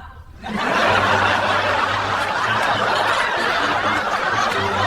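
A courtroom crowd laughing together, a dense steady wash of many people's laughter that builds in about half a second in and runs on without a break.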